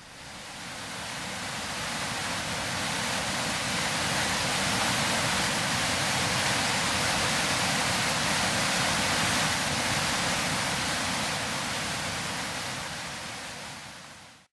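Steady roar of a large waterfall in full flow, fading in over the first couple of seconds and fading out near the end.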